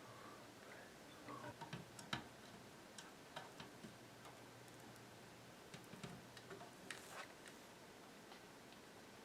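Faint, scattered clicks and light taps of small hand work on wires and parts, irregular, in two clusters with the sharpest click about two seconds in.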